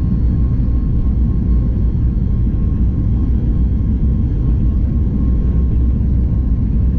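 Steady low rumble of a Boeing 737 MAX 8 heard inside the passenger cabin, with a faint steady hum above it and no change in pitch or level.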